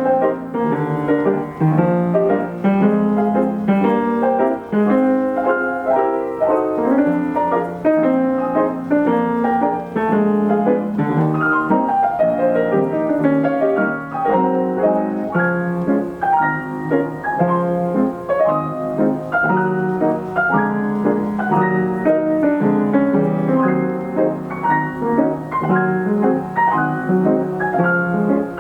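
Steinway model S grand piano played by its Ampico B reproducing mechanism from a paper music roll: a 1930s popular-song medley in quick, dense chords and melody notes, with no pauses.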